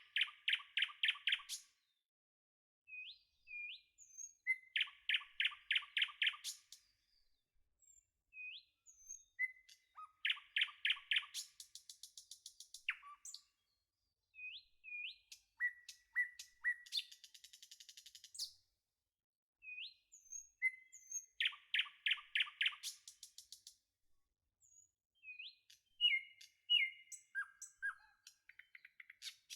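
Songbird singing in repeated phrases, about every five to six seconds. Each phrase is a few short rising chirps followed by a quick run of repeated notes.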